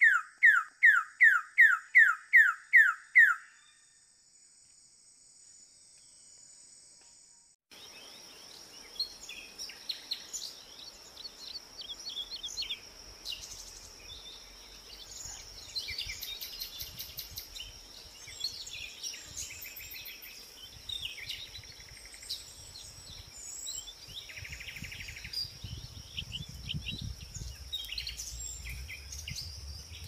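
A bird-of-paradise calling: a run of about ten loud, falling whistled notes, about three a second, stopping after some three seconds. After a few seconds of quiet, forest ambience follows: a steady high insect buzz with many short bird chirps and calls.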